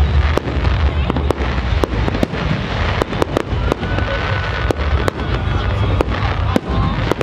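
Fireworks display: a rapid, continuous run of sharp shell bursts and crackling, many reports a second, over a steady low rumble.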